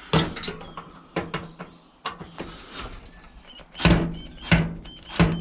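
Scrap metal being handled: a run of irregular knocks and clanks, loudest about four seconds in.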